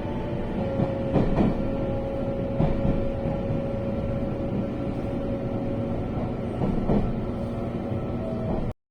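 Passenger train heard from inside the carriage while running: a steady rumble with a thin steady whine and a few knocks from the wheels and carriage. The sound cuts off suddenly near the end.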